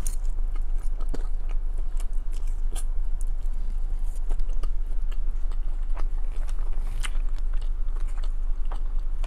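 Close-up mouth sounds of a child chewing chili cheese fries, picked up by a clip-on mic: many short, scattered wet clicks and smacks over a steady low hum.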